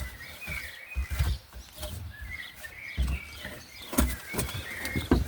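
A small bird chirping and twittering in short broken notes, with a few dull knocks and sharp clicks of handling between the notes.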